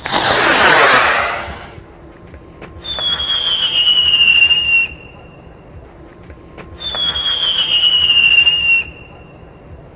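A Lunik Express firework rocket fitted with a whistling chakkar launches with a loud rushing whoosh of about a second and a half. It then gives two whistles, each about two seconds long and falling slightly in pitch, a couple of seconds apart.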